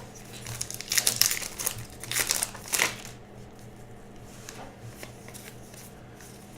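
Crinkling and rustling of a trading-card pack wrapper being handled and opened, in several short bursts over the first three seconds, then quieter.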